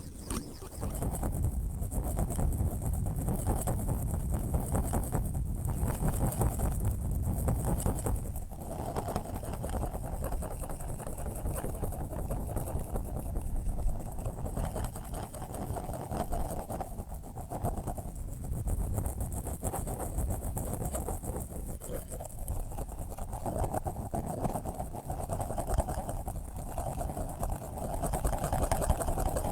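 Steady white-noise sleep track: a deep, low rumble with a mid-range hiss that swells and eases every few seconds, much like an engine or boat hum.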